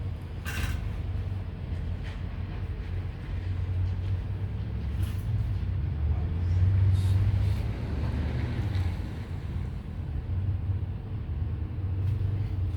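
Steady low machine hum with a few sharp clicks.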